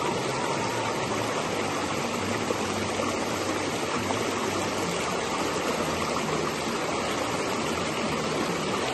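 Steady rush of flowing water, an even wash of sound with no breaks.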